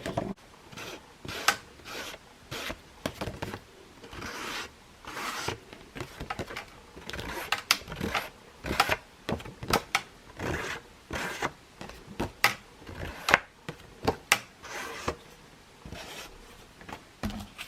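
Paper and cardstock being handled, with repeated short rubbing and scraping strokes at an irregular pace of about one or two a second.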